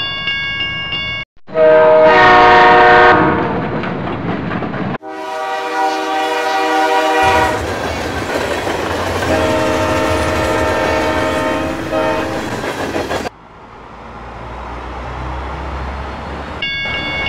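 Train sound effects: three long train horn blasts, each at a different pitch, followed by the rising rumble of a train rolling along the track. A high steady warning tone sounds at the start and again near the end.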